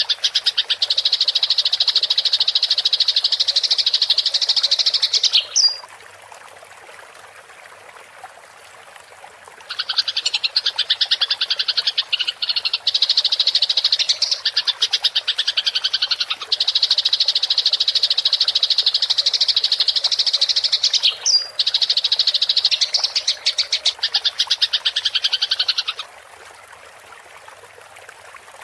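Eurasian tree sparrows chattering in fast, continuous, agitated bursts typical of sparrows squabbling. There are two long bouts, the second starting about ten seconds in. In the pauses between them and near the end, only a faint hiss of running water remains.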